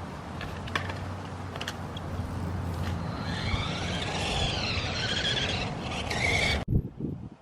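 Electric RC truck drivetrain whining, its pitch rising and falling again and again as the throttle changes, over a steady low hum. The sound cuts off abruptly near the end.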